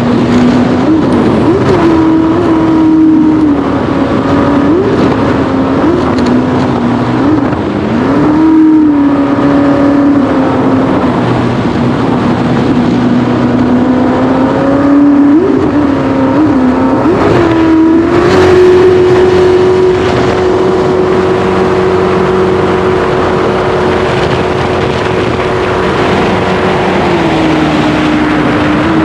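Racing jet boat's engine running hard, its pitch rising and falling again and again as the throttle changes. About two-thirds of the way through it settles into a steady higher note, which drops a little near the end.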